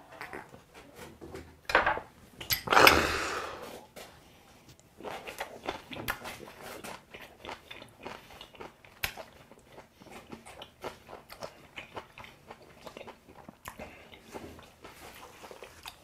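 Close-miked chewing of a mouthful of raw beef and aged kimchi: many small wet clicks and smacks. About two and a half seconds in, a loud breathy exhale follows a shot of soju.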